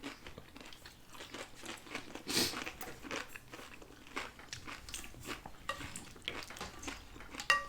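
Chewing and crunching of fried corn tortilla with aguachile: irregular crisp crunches at a low level, with one louder crunch a little over two seconds in.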